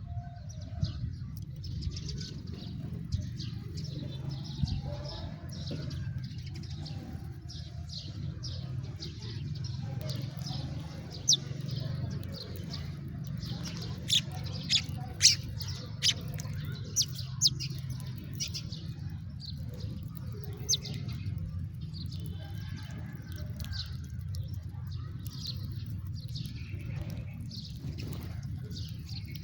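A flock of house sparrows chirping: many short, overlapping chirps throughout, with a handful of louder single chirps in the middle, over a steady low rumble.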